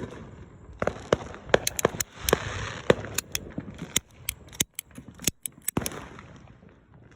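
Firecrackers going off: an irregular string of sharp pops and cracks, about two dozen over five seconds, thinning out near the end.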